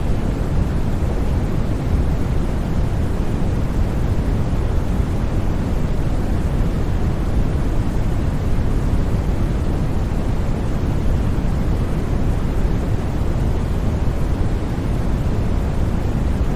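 Steady white noise: an even, unbroken rushing hiss, heaviest in the low range and thinning toward the top.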